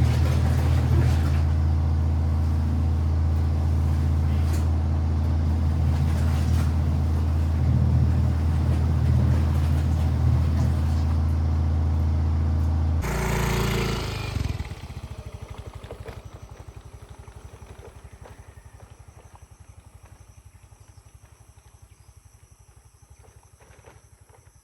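Steady low motor hum that cuts off abruptly just over halfway through, followed by a short burst of noise and a fading, much quieter tail.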